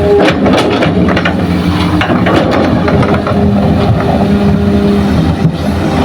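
Heavy diesel construction machinery running under load, with a rapid run of clattering metal knocks in the first three seconds.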